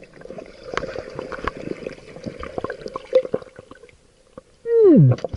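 Water and bubbles crackling and gurgling underwater, with many small clicks. Near the end, a loud tone that falls steeply in pitch.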